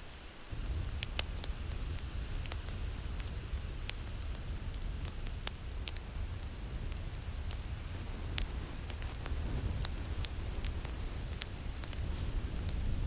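Crackling fire with frequent sharp pops, over a steady low rumble of wind that swells up about half a second in.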